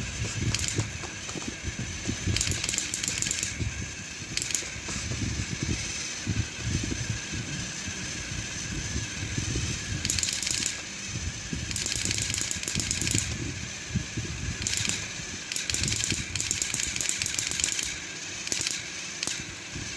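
Battery-powered toy train engines running against each other, their small motors and plastic gears whirring and rattling, with spells of fast clicking every few seconds.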